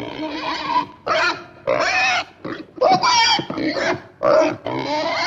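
A farm animal giving a quick series of loud cries, about eight in a row with short breaks between them.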